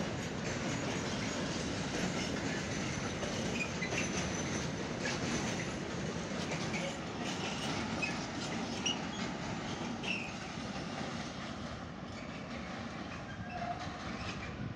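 Container flat wagons of a freight train rolling past with steady wheel-on-rail noise and clicking over rail joints. Occasional short wheel squeaks cut through, and the noise eases slightly near the end as the last wagons go by.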